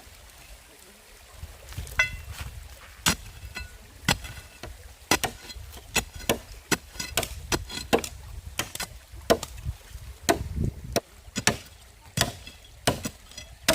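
Wood being chopped: an irregular run of sharp chopping blows, about one or two a second, a few of them ringing briefly.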